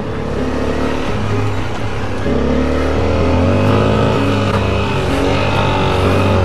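Single-cylinder dual-sport motorcycle engine running under load on an off-road trail. Its pitch rises and falls with the throttle, and it gets louder from about two seconds in.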